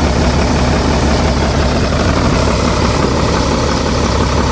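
Engine of a heavy machine, an excavator or truck, running steadily at idle with an even, deep drone.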